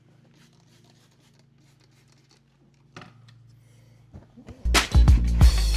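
Faint rubbing and scratching of a microfiber towel wiping interior plastic trim, with a single click about three seconds in. Near the end, loud funk-style background music with a heavy beat comes in.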